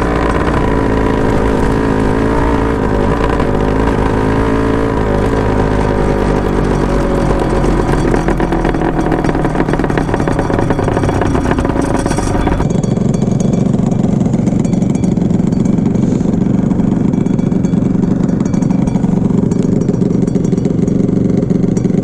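Honda NSR250 (MC21) two-stroke V-twin running through Dog Fight Racing expansion chambers, its exhaust note rising and falling in pitch as it revs. About halfway through, the sound cuts abruptly to a steadier, lower and duller engine note.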